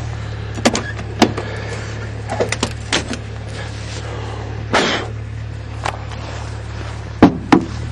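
Footsteps crunching through fresh snow over the steady low hum of an idling diesel engine. Near the end come two sharp clicks, a vehicle door latch being opened.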